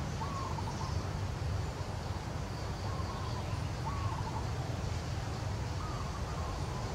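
A bird calling repeatedly, short phrases of a few notes each about once a second, over a steady low rumble.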